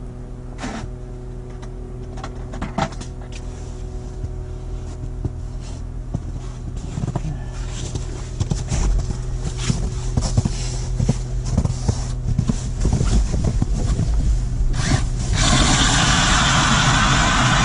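A motor running steadily with an even hum, getting louder, with scattered clicks and knocks. About fifteen seconds in, a loud hissing rush starts suddenly.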